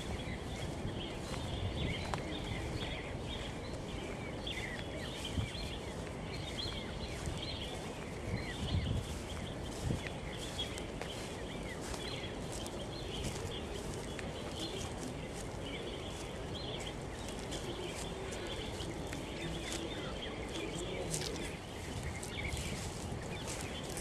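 Small birds chirping, many short overlapping chirps throughout, over a steady low rumble of outdoor noise with scattered faint clicks.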